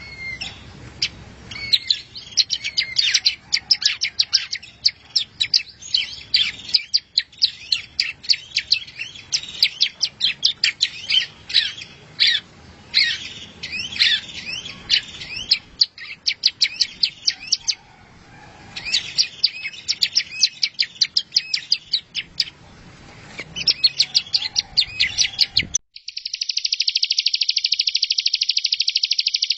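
A songbird's recorded song, a masteran training track: rapid runs of varied chirps, whistles and trills. About four seconds before the end it cuts abruptly to a continuous, fast, rattling buzz.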